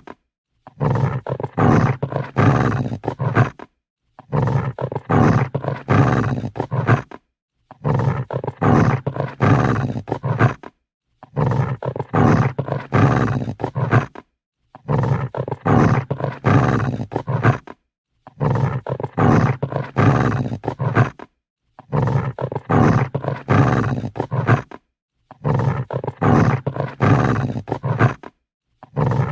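Dog growling angrily in bursts about three seconds long, each followed by a short silence. The growls come at even intervals, about eight in all, as a repeating loop.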